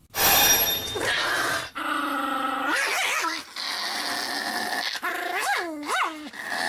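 A dog growling and whining, with two short rising-and-falling whines near the end.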